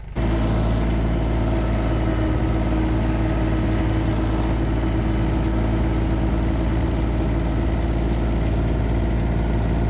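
Tractor engine running steadily at constant speed, cutting off abruptly near the end.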